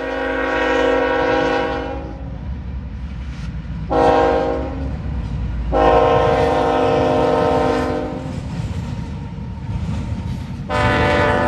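Freight locomotive air horn sounding a series of blasts as the train passes: a long blast ending about two seconds in, a short one about four seconds in, a long one around six to eight seconds, and another starting near the end. The locomotive and train rumble steadily underneath.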